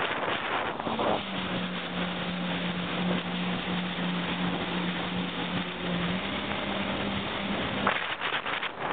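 Jet ski engine running at a steady pitch, its hum holding from about a second in until near the end, with a slight step up in pitch partway through. Wind buffets the microphone at the start and near the end.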